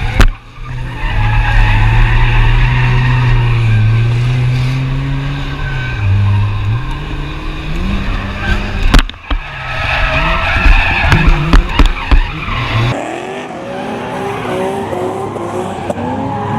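Drift cars sliding on track, their engines revving up and down with tyres squealing. A few sharp cracks come about nine to twelve seconds in, and about thirteen seconds in the deep rumble drops away, leaving higher engine notes.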